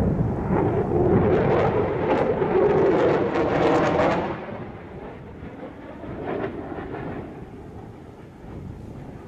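Fighter jet engine noise from a display flypast: a loud, rough rumble that fades away after about four seconds.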